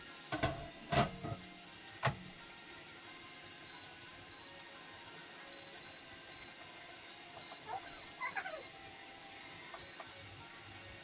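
Three sharp knocks in the first two seconds, then a string of short, high electronic beeps at uneven intervals, the button-press tones of an electronic device.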